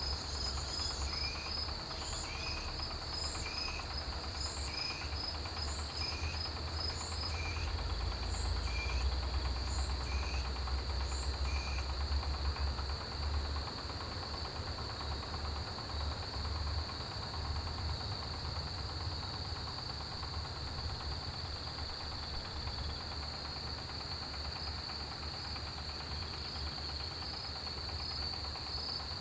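A chorus of autumn grass insects, crickets among them, trilling steadily at a high pitch. For about the first twelve seconds a shorter, lower chirp also repeats about once a second. A low rumble sits underneath and is heaviest in the middle.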